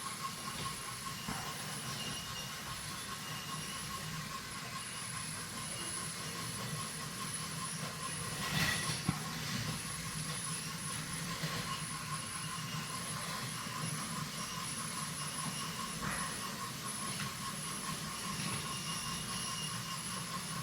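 Several battery-powered toy trains running together on a wooden track layout: a steady whine from their small electric motors over the low rumble of wheels on the wooden track, with one louder clack about nine seconds in.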